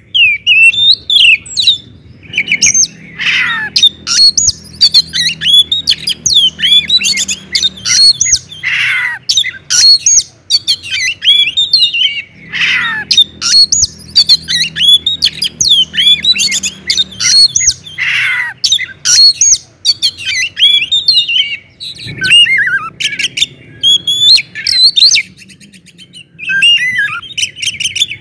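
Oriental magpie-robin (kacer) singing loudly and continuously: a fast, varied stream of clear whistles and chirps, broken every few seconds by a long, down-slurred note.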